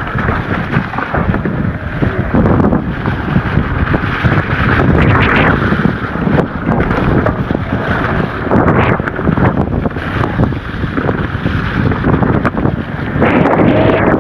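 Wind buffeting a bike-mounted camera microphone while a mountain bike rides over rough trail, with rattles and knocks from the tyres and bike throughout.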